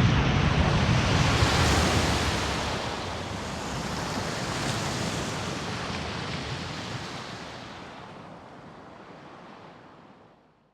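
A rushing, wind- or surf-like noise effect that starts suddenly with a low rumble, then fades away gradually over about ten seconds.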